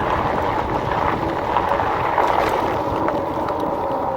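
Steady wind rushing over the camera microphone while riding an e-bike, with a constant low rumble underneath.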